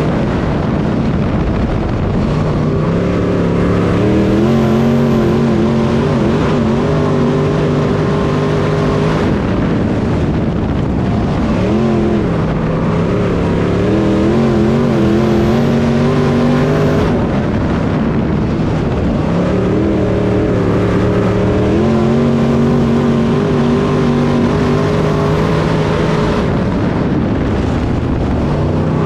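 A race car's engine at racing speed, climbing in pitch and holding, then backing off. This repeats about every eight or nine seconds, like a car accelerating down the straights and lifting for the turns.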